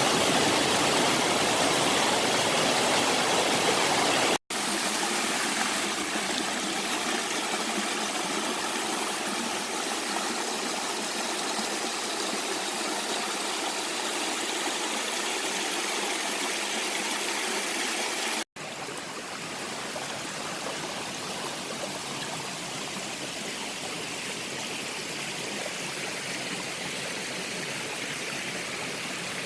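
Mountain valley stream rushing steadily over rocks. It breaks off abruptly twice, about four seconds in and again near the middle, and comes back each time slightly quieter.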